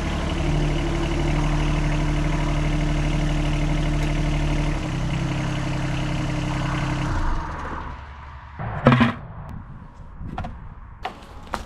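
Yanmar SA221 sub-compact tractor's three-cylinder diesel running, stepping down in speed twice and then shutting off a little over half-way through. A few sharp knocks or clicks follow.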